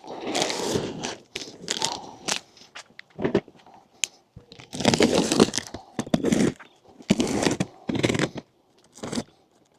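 A cardboard shipping box and its packaging being torn open by hand. The tape and cardboard tear and crunch in a series of short, noisy bursts.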